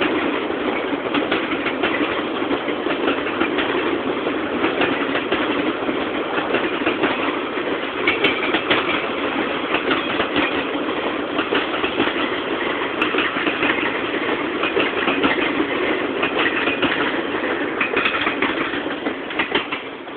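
Freight cars of a slow, heavy freight train rolling past, steel wheels clicking and clattering over rail joints and interlocking switches. The sound stays steady and begins to fade at the very end.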